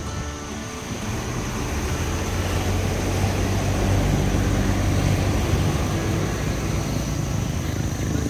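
A low engine drone that swells over the first few seconds and then holds steady, as of a passing motor. A faint, steady high-pitched tone sits above it.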